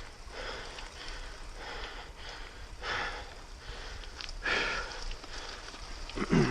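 Mountain biker breathing hard in short puffs while pedalling, a longer breath about four and a half seconds in, and a loud low thump near the end.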